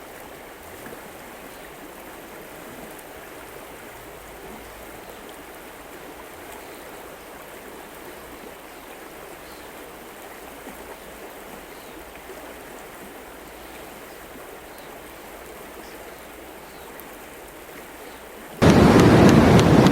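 Steady rush of flowing river water. Near the end it gives way suddenly to a much louder noise full of rapid sharp ticks.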